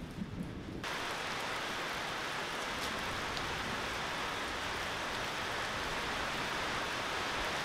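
Steady rain falling, an even hiss that jumps louder about a second in and then holds steady.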